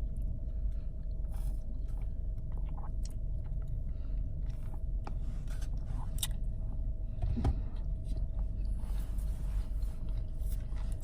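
A person chewing and biting food close to the microphone, with scattered small clicks and crunches over a steady low hum.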